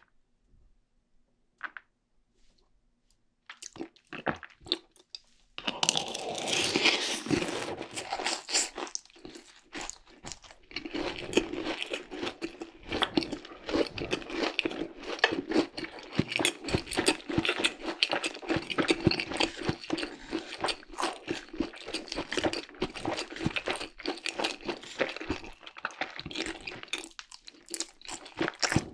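Close-miked chewing of a mouthful of crunchy fried cheese ball and noodles: after a few near-silent seconds, dense, rapid crunches start a few seconds in and keep going steadily.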